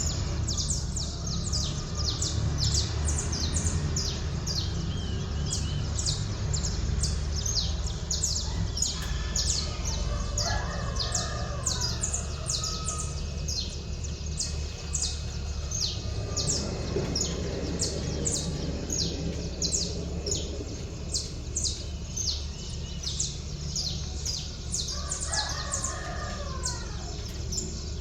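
A rooster crowing twice, about a third of the way in and again near the end, over small birds chirping rapidly and continuously at a high pitch. A steady low hum of the waking city runs beneath.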